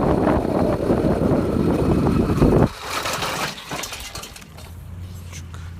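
Home-assembled motorized bicycle's small engine running loudly, then dropping off suddenly about two and a half seconds in to a much quieter low, steady hum.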